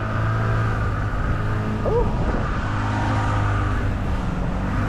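Boat's motor running steadily at an even pitch, with a brief vocal whoop about two seconds in.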